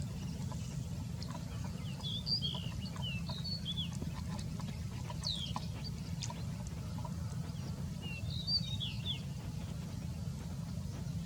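Small birds chirping in short, high, quick notes that come in clusters, over a steady low rumble.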